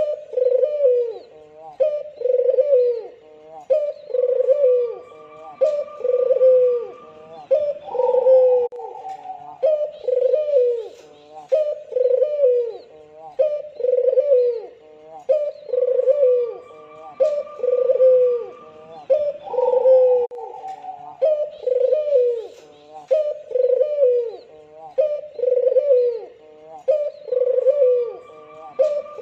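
Albino Barbary dove (white ringneck dove) cooing in an unbroken series, about one short falling coo a second, with a higher call breaking in a couple of times.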